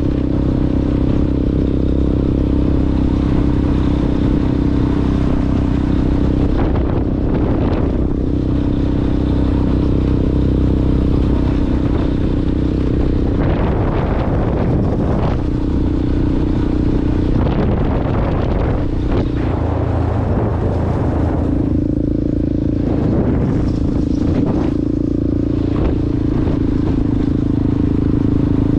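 Yamaha Ténéré motorcycle with an aftermarket Coyote exhaust, running under way off-road, its exhaust note rising and easing several times as the throttle changes.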